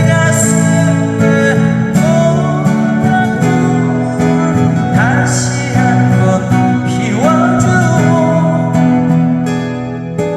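Acoustic guitar music: steady strummed chords with a gliding melody line over them, part of a live busking song.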